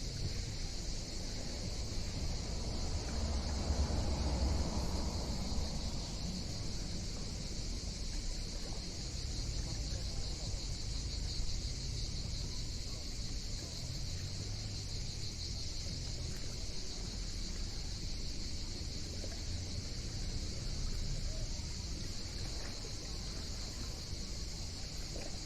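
Cicadas keep up a steady, high, unbroken buzz over a low rumble, and the rumble swells about four seconds in.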